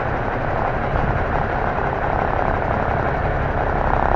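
Diesel engine of an M923A1 5-ton 6x6 military truck running steadily as the truck drives.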